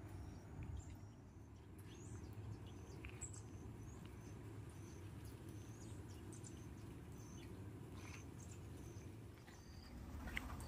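Faint outdoor ambience: a bird calling in short, high chirps about twice a second, over a steady low rumble.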